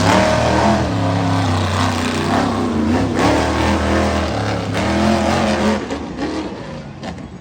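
Monster truck engine revving hard through its freestyle run, its pitch climbing and falling again and again with each burst of throttle, dying down near the end.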